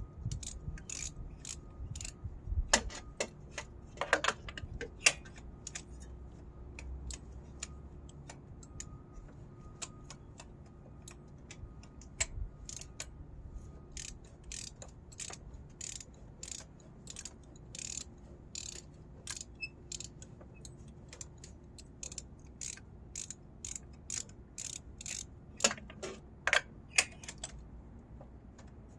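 Hand ratchet clicking in uneven runs as it turns a spark plug socket to work a stiff spark plug out of the engine, with a few louder metal knocks a few seconds in and again near the end.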